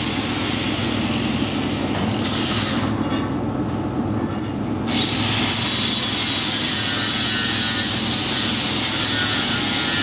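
A power tool working metal runs without a break, with a high whine that drops away briefly and rises back about halfway through.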